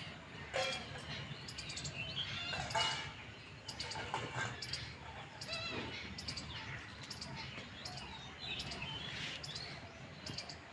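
Small birds chirping and tweeting, many short high chirps overlapping throughout.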